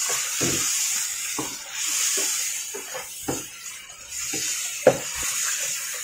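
Chicken and spice masala sizzling in a coated wok with a little water added, being fried down (bhuna). A wooden spatula scrapes and knocks against the pan in quick stirring strokes, with one sharper knock near the end.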